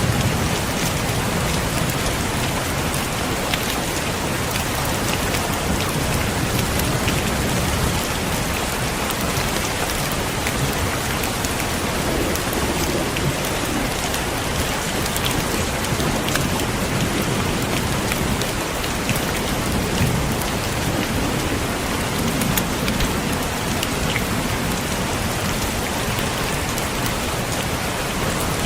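Heavy rain falling steadily, with many individual drops ticking against a window pane. A low rumble of thunder swells and fades a few times.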